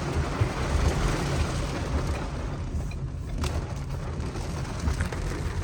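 Low, steady rumble of a car on the move, with one brief click about three and a half seconds in.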